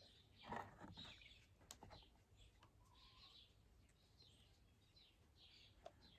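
Near silence: faint birds chirping in the background, with a soft rustle about half a second in and a few light clicks.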